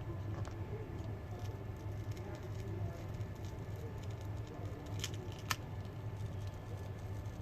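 Small clicks and taps of handling a smartphone and its parts during disassembly, with two sharper clicks about five seconds in, over a steady low hum.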